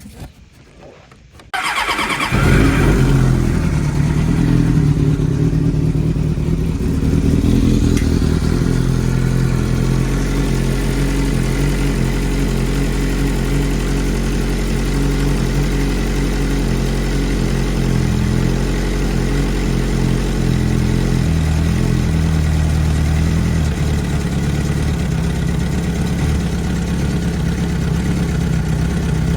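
Suzuki GSX-R600 inline-four motorcycle engine starting about a second and a half in, catching at once. It runs a little higher for the first several seconds, then settles into a steady idle, run to purge air from the freshly refilled cooling system.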